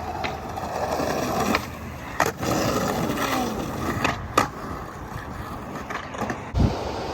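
Skateboard wheels rolling over pavement, with several sharp clacks of the board striking the ground.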